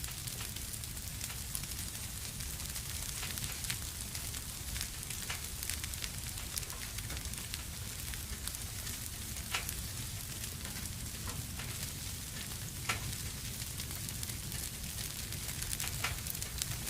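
Wood fire burning in a fireplace: a steady hiss with sharp crackles and pops every few seconds, the loudest pop about thirteen seconds in.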